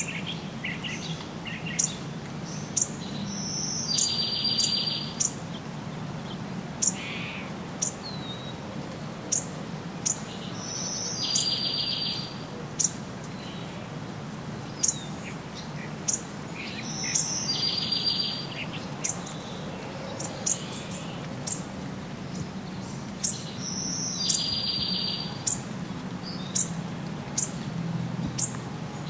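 Wild birds calling. One bird repeats a buzzy call lasting about a second, roughly every six to seven seconds, each call led by a short high note, while thin high chirps come and go in between. A steady low rumble runs underneath.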